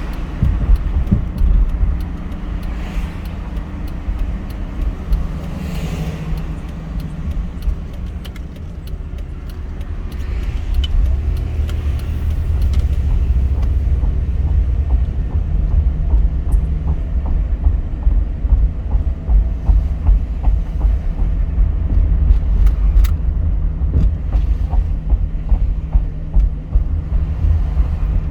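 Car being driven, with a heavy low rumble of engine and road noise that grows louder about a third of the way in and then holds steady, plus a few faint clicks.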